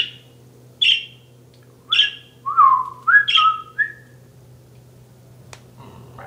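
Pet budgie calling: three sharp chirps about a second apart, then a quick run of whistled notes that glide up and level off. A single click follows near the end.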